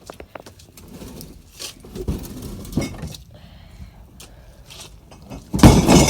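Glass bottles clinking and knocking together inside a wheeled bottle bin as it is moved, scattered clinks at first. Near the end a loud, sustained clatter of bottles rattling starts.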